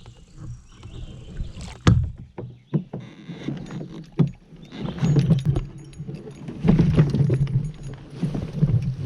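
Knocks against a kayak's hull, then kayak paddle strokes through the water at a steady pace, about one every second and a half to two seconds.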